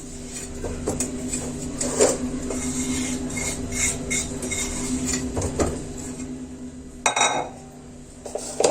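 Clinks and knocks of a kitchen container being handled as lemons are pressed into it with salt to fill it, with a sharper knock about seven seconds in and another near the end.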